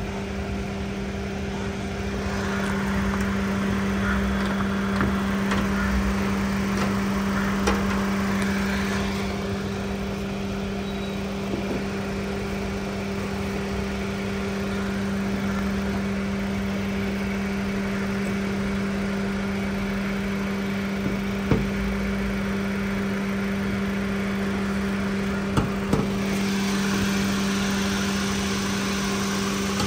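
Honda Amaze petrol car idling steadily with a constant low hum. A few light clicks or knocks come through, and a broader rush of noise rises for several seconds near the start and again near the end.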